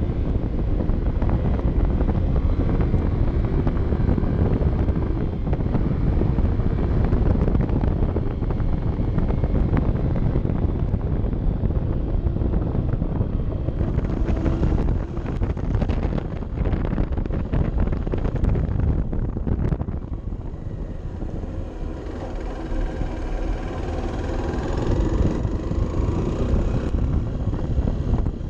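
Honda CB 125 F's single-cylinder four-stroke engine running while descending a mountain pass, under heavy wind rushing over the microphone. The sound drops quieter about twenty seconds in and builds again near the end.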